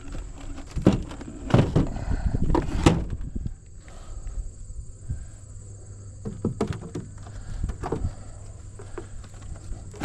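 Wooden beehive frames and boxes knocking and clattering as they are handled, loudest in the first few seconds, then a few more knocks later, over the steady buzzing of honey bees around an open hive.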